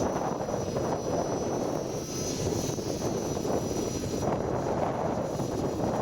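Strong gusting wind buffeting the microphone, with the faint high whine of an Align T-REX 500 electric RC helicopter's motor and rotor wavering in pitch over it; the whine fades out about four seconds in.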